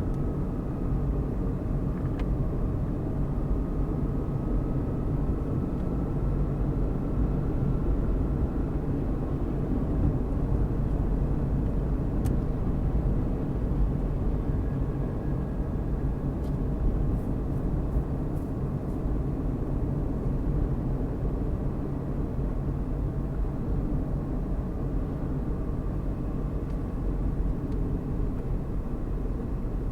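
A car driving steadily along a road: a continuous low engine and tyre rumble. A faint whine rises slowly in pitch over the first few seconds.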